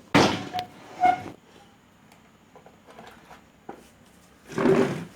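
Handling noise: a quick clatter of knocks in the first second or so, two of them with a short metallic ring, then a longer scraping rustle a little before the end.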